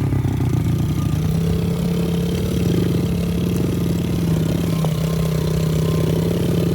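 Pit bike engine idling with a steady, even note that holds one pitch throughout, not revved.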